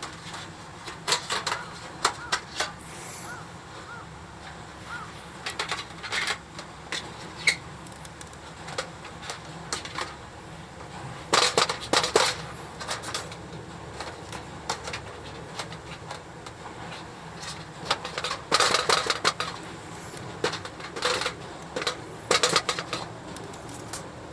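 Hard objects clinking and clattering in short bursts every few seconds, as when things are being handled and set down, over a steady background hiss.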